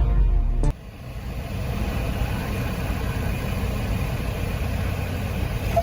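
Music cuts off abruptly under a second in, giving way to the steady running of a Cessna 172's piston engine.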